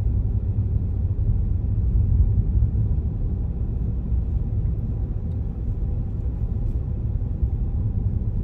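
Steady low rumble of a car driving along a road, heard from inside the vehicle: engine and tyre noise.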